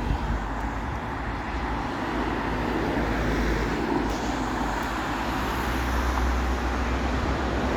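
Bus engine running as the bus pulls away, a low rumble that slowly grows louder over the seconds, with road traffic noise.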